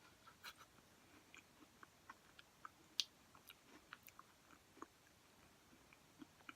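Quiet close-up chewing of a crunchy granola and peanut butter cup: faint scattered crunches and mouth clicks, with one sharper click about three seconds in.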